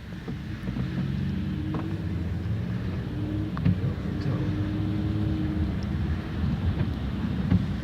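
Motor vehicle engine running with a steady low rumble and a humming tone that holds, then shifts slightly in pitch.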